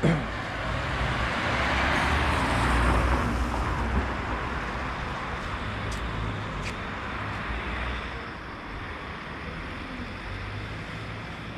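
A vehicle passing on the street beside the walker: its tyre and engine noise swells to a peak two to three seconds in and fades away, over a steady background of traffic. Two faint short clicks come near the middle.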